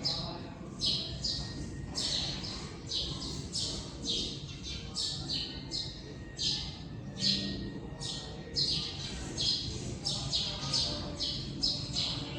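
Small birds chirping over and over in short, high chirps, about three a second, from the nest with a newly hatched chick and its parents.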